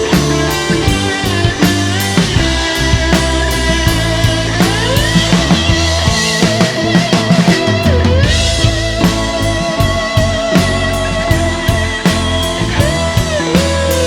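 Live rock band playing an instrumental passage: electric guitar with bending, sliding lead notes over bass and a steady drum-kit beat.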